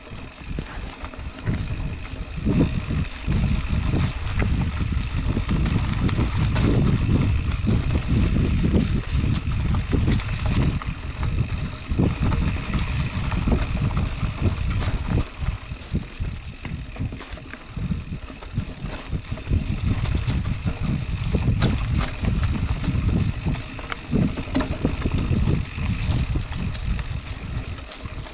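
Specialized Chisel mountain bike riding over rough dirt single track: a continuous low rumble of tyres and buffeting on the microphone, with many quick knocks and rattles of the bike over bumps.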